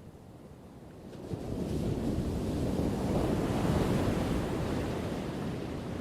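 One ocean wave surging in: a low wash that swells about a second in, peaks midway and fades toward the end.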